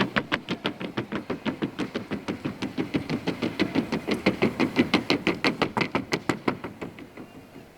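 Hoofbeats of a Colombian trocha mare working in the four-beat trocha gait on a wooden sounding board: rapid, even knocks at about seven a second that fade out near the end.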